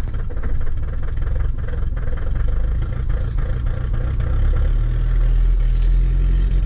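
2018 Mahindra Thar's diesel engine running just after a glow-plug cold start at −16 °C, clattering and uneven at first. It settles into a steadier, slightly louder run about five seconds in.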